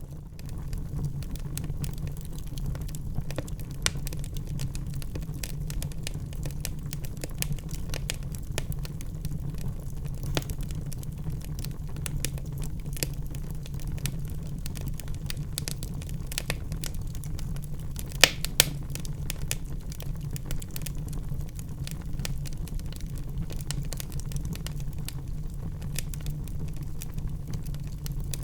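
Wood fire burning in a fireplace: a steady low rumble of the flames with constant irregular crackling, and a couple of sharper pops about 18 seconds in.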